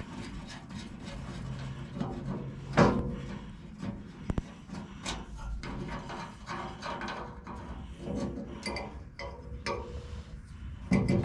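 Hand-tool work on a combine's straw chopper knives and bolts: scattered metal clinks, scraping and ratchet-like clicks, with a sharp knock about three seconds in and a quick double click just after four seconds.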